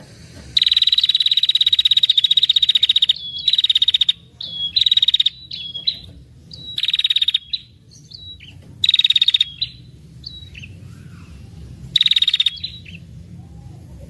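Female ashy tailorbird giving its rapid buzzing trill ('ngetir'). The first trill lasts about two and a half seconds, then come five shorter trills with single sharp chip notes between them.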